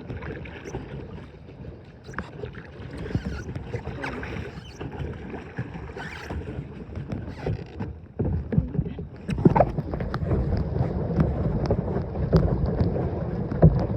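A small boat being paddled: a paddle splashing in the water and knocks against the hull, over a low rumble that grows louder about eight seconds in.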